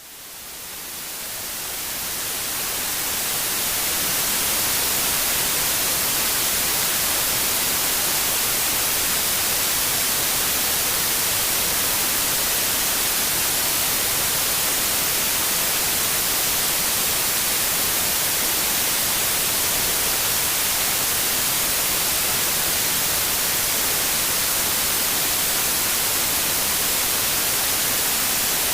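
Steady synthetic white noise, an even hiss with no pitch or rhythm, brightest in the high end. It fades in over the first few seconds, then holds level.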